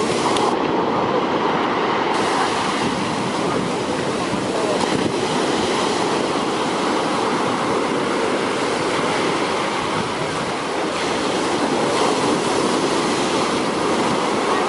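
Large sea waves breaking and rushing up the shore, an unbroken wash of surf noise that stays steady throughout.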